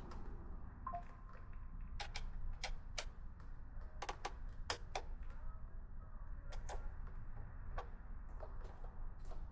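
Irregular sharp metallic clicks and taps of hand tools working at a motorcycle battery's terminal bolts, over a low steady hum.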